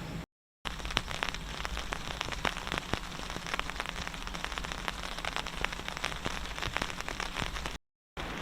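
Rain falling, a dense irregular pattering of drops, broken by two short gaps of silence near the start and near the end.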